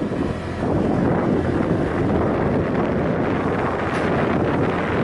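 Wind buffeting the microphone on a moving motorbike: a steady, dull rumbling rush, with the bike's running noise underneath.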